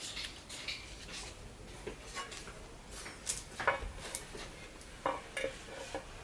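Scattered light metallic clinks and knocks of parts and tools being handled during transmission work, a few sharper ones in the middle and latter part.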